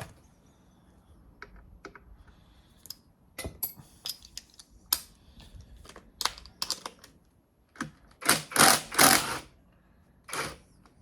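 Hand tools clicking and clinking on metal as the lock bolt of a Mazda MX-5 Mk1 engine's belt tensioner is undone, with a louder, denser run of clicks about eight seconds in.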